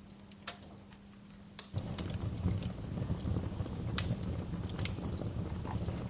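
Wood fire crackling: a low rumble of flames with scattered sharp pops, which gets louder and denser about two seconds in. Before that there are only a few faint pops over a steady low hum.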